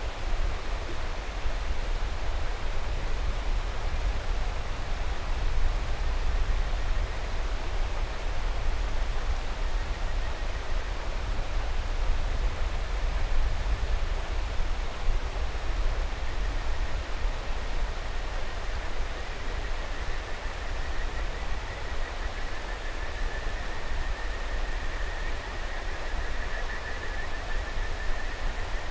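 A mountain stream rushing steadily. About two-thirds of the way in, a kajika frog (Buergeria buergeri) starts calling in a high, fluttering trill over the water.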